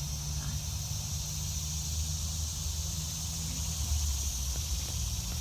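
Steady high-pitched chorus of insects over a low, even hum.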